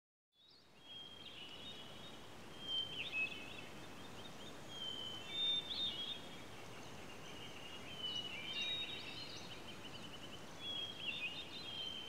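Songbirds chirping and trilling over a steady background hiss, one short phrase every two to three seconds.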